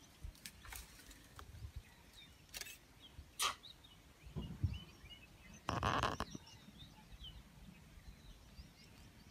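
Faint birds chirping in the background, with a few sharp clicks and low rumbles and a half-second burst of noise about six seconds in.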